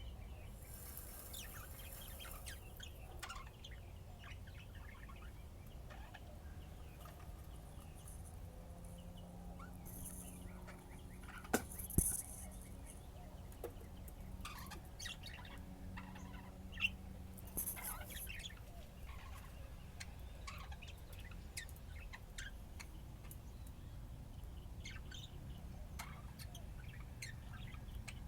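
Pet budgerigars chirping and chattering in short, scattered calls, with a few sharp clicks about halfway through.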